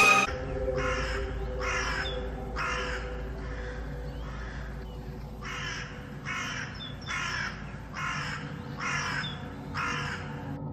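A bird giving a series of about ten short, harsh calls, roughly one a second, with a brief pause midway.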